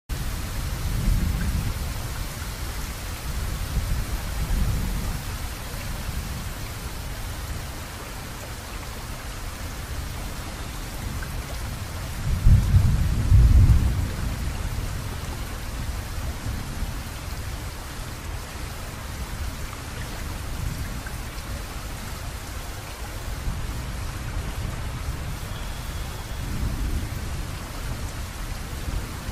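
Heavy rain falling steadily, with several low rumbles coming and going, the loudest lasting a second or two about halfway through.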